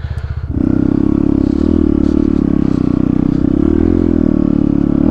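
Dirt bike engine revving up about half a second in and held at high, steady revs.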